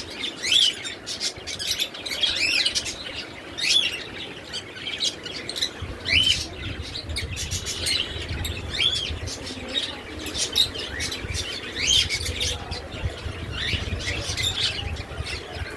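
Caged pet-shop birds chirping: short calls that rise and fall in pitch, repeated irregularly every second or two.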